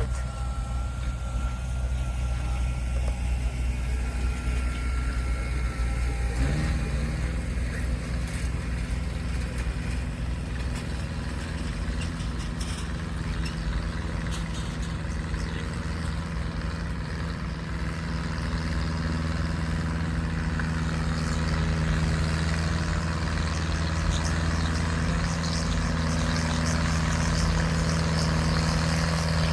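Antique farm tractor engine running steadily, then revving up about six seconds in and holding at the higher speed, as for a pull on a transfer sled.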